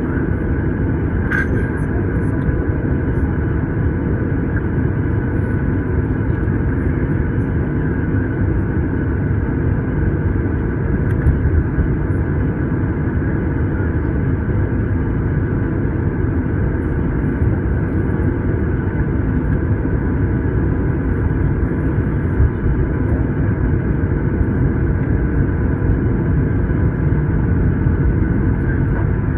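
Steady cabin noise inside a Boeing 737-900 taxiing after landing: a loud, even low rumble with a few steady tones running through it, and a short click about a second and a half in.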